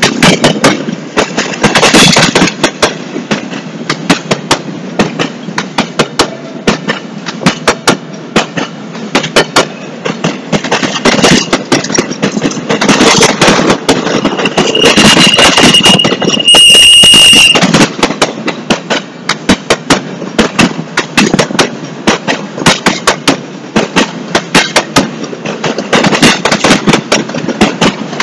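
Freight train of empty intermodal well cars rolling past, its wheels clacking rapidly over the rail joints with many loud metallic bangs and rattles over a steady rumble. A brief high squeal sounds a little past the middle.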